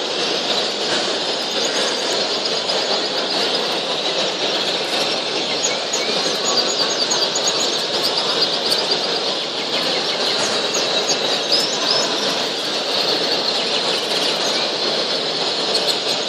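Many caged canaries and other small birds chirping and fluttering together in a dense, steady din, with clear high chirps and trills standing out through the first two-thirds.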